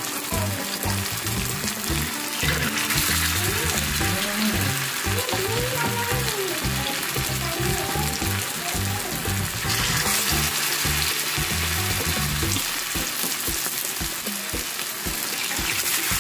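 Cornflour-coated potato patties (aloo tikki) sizzling as they shallow-fry in vegetable oil on a flat griddle, a steady dense crackle that grows louder about two and a half seconds in and again near ten seconds as more raw patties are laid into the oil.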